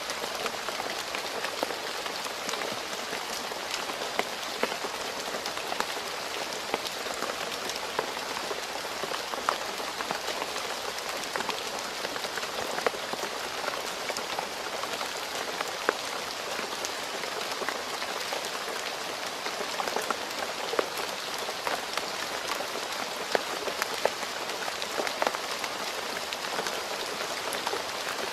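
Steady rain falling on a road surface: a dense, even hiss with many sharp individual drop splats and ticks scattered through it.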